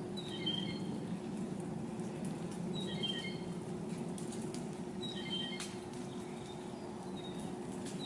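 A songbird repeating a short, high phrase of a few chirped notes about every two to two and a half seconds, over a steady low hum, with a few faint sharp ticks in between.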